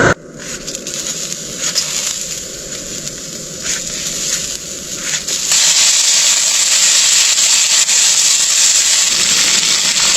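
Food frying in hot oil in a pan: scattered crackling and spitting, then a louder, steady sizzle from about five and a half seconds in.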